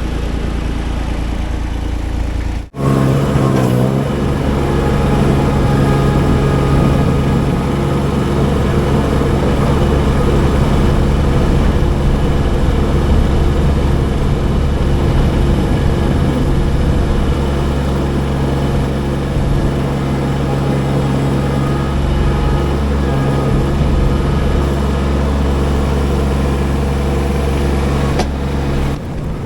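Baumalight TRL620D mini skid steer's diesel engine running steadily while working. It breaks off for an instant about three seconds in, then runs on louder, with the level dropping just before the end.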